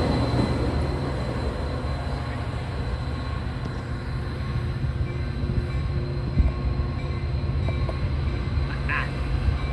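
Commuter train running on the rails with a steady low rumble that eases slightly at the start, and a faint steady high tone above it.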